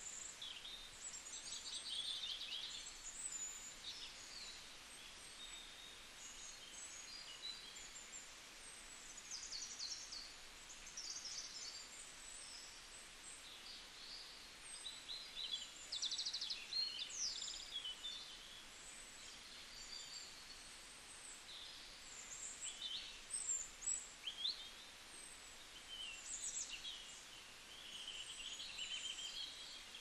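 Birds chirping and twittering in an evening chorus: many short, high calls and quick pitch slides come and go throughout, over a faint steady hiss, with the busiest flurries about halfway through and again a few seconds later.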